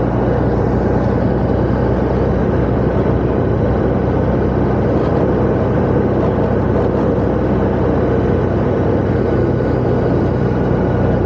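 Motorcycle engine and road and wind noise while riding at a steady cruising speed, an even drone with no change in pitch or level.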